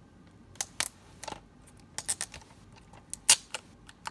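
Fingers picking and peeling at the plastic security seal on top of a DVD case: a string of sharp, irregular plastic clicks and crackles, with one louder snap a little after three seconds in.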